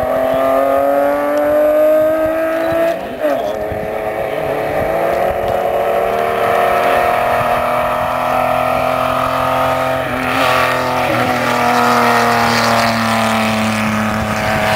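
Classic saloon car's engine accelerating up a sprint course, the pitch climbing in each gear with a gear change about three seconds in and another around ten seconds in, then falling as the car passes close by near the end.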